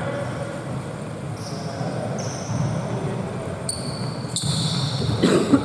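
Basketball game play in a gym: several short high-pitched squeaks of sneakers on the court over a steady rumble of hall noise, with a ball bouncing, one sharp knock about two thirds of the way in.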